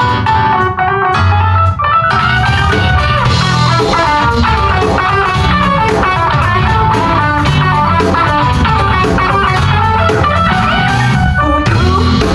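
Live band playing an instrumental passage led by guitar, with bass and drums; the sound fills out about two seconds in.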